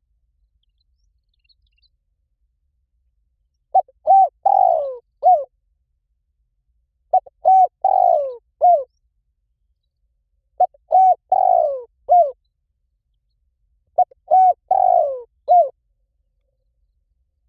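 Spotted dove cooing in four identical phrases, about one every three and a half seconds, starting about four seconds in. Each phrase is a few short hooked coos with one longer falling coo. It is a call track meant to lure wild spotted doves in.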